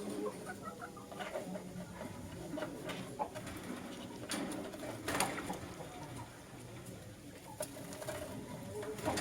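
Young lutino lovebirds making soft, short chirps and chatter, with scattered sharp clicks and taps, over a steady low hum.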